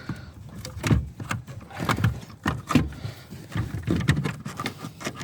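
Irregular clicks, knocks and rustles of hands moving wiring and plastic parts around inside a car's rear light housing.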